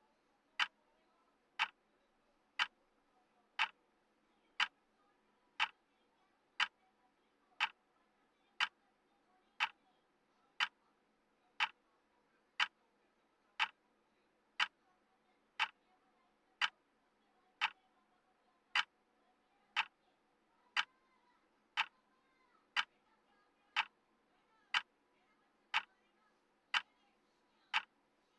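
Clock ticking steadily once a second, each tick a short, sharp click: the tick sound of a countdown timer.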